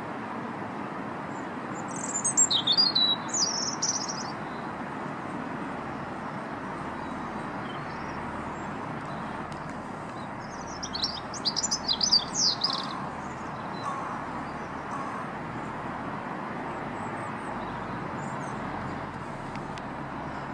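Bird calls: two bursts of high, rapid chirping, about two seconds in and again about ten seconds in, over a steady background hiss.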